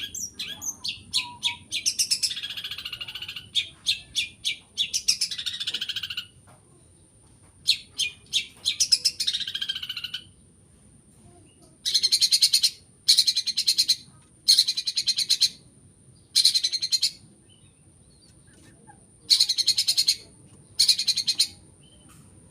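Long-tailed shrike (cendet) singing: rapid chirping phrases for the first ten seconds, then six short buzzy trills, each under a second and spaced a second or so apart. Its song mixes in imitations of prinia and sparrow calls. A thin steady high tone runs underneath.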